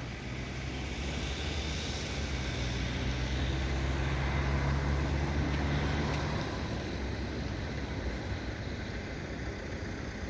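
A motor vehicle's engine passing close by, humming low and growing louder for the first few seconds, then fading away about six seconds in, over a steady wash of street traffic.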